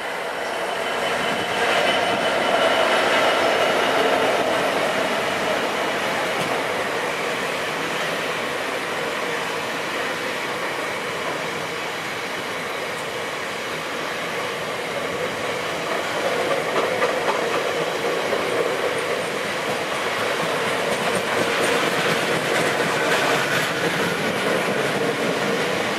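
Freightliner Class 66 diesel-electric locomotive passing close by, its two-stroke diesel engine loudest in the first few seconds, then a long rake of bogie hopper wagons rolling past with clattering wheels.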